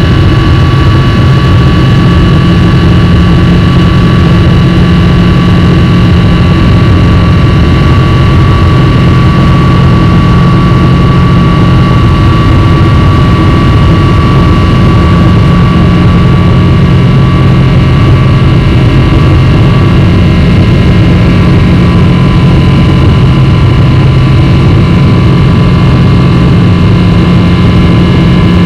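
Boeing 777-300 jet engines heard from inside the passenger cabin: a loud, steady rumble with a low hum and several thin, steady whining tones above it.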